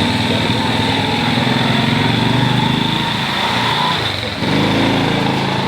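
A small engine running steadily; its note drops briefly about four seconds in, then picks up again.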